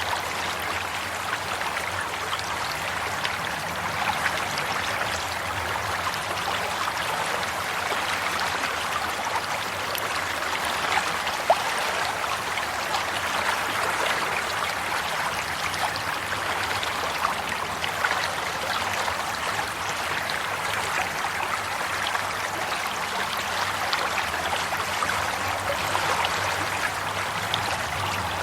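Running water of a stream, a steady babbling and trickling over stones with small splashes throughout.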